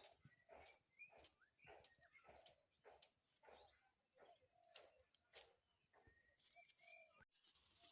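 Faint rhythmic rustling, about two soft strokes a second, under a high, steady trill and a few short chirps.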